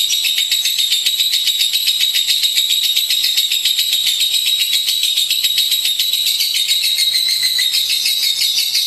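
Lovebird singing a fast, unbroken chattering trill of high notes, about a dozen a second, held steadily throughout.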